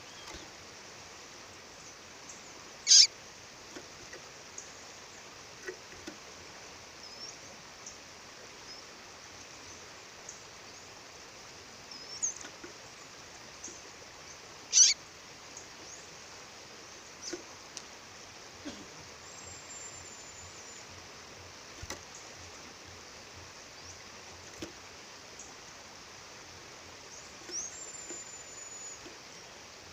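A female songbird calling in short, sharp, high chirps: two loud ones about 3 and 15 seconds in, fainter chirps in between, and a couple of thin drawn-out high whistles near the end. Under them runs the steady rush of a waterfall.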